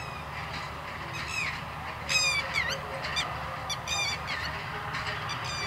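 Birds calling in a run of short, high calls that fall in pitch, several in quick succession about two seconds in and again around four seconds. Under them runs the low, steady rumble of a train on the tracks.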